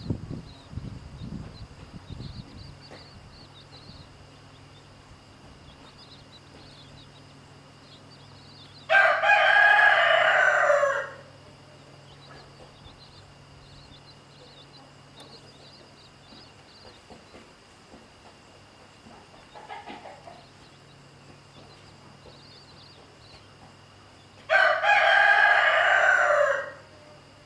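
A rooster crowing twice, each crow about two seconds long and falling in pitch at the end, about fifteen seconds apart. Faint high peeping from chicks runs between the crows.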